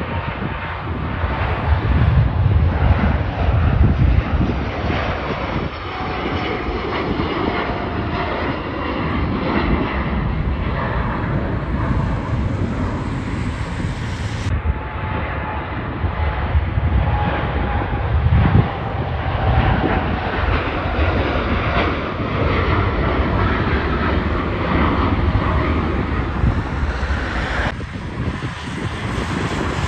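Jet airliner engines rumbling steadily as an aircraft moves past, with a faint engine whine that slowly falls in pitch.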